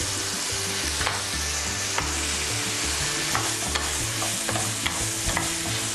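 Chunks of meat with onion, carrot, ginger and garlic sizzling in fat in a frying pan while being stirred, with a few light knocks as it is stirred.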